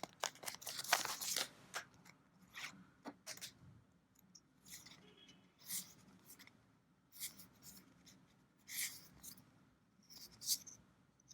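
Trading cards being handled: short papery slides and flicks as cards are moved one behind another, a quick cluster in the first second or so, then single slides every second or two.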